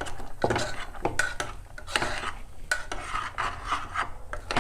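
A utensil stirring food in a cooking pan, with repeated, irregular scraping strokes and light clinks against the pan.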